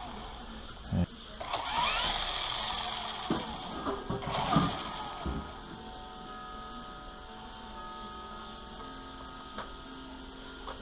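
Small electric motor of a WLToys V915 fixed-pitch RC helicopter spooling up, its whine rising in pitch, then running at a steady pitch. There are a few knocks in the first five seconds.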